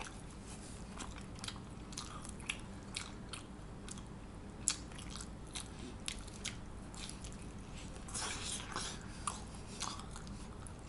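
Close-up chewing of a mouthful of pizza: a steady run of small wet clicks, smacks and light crunches of crust, with one sharper click about halfway through and a busier patch near the end.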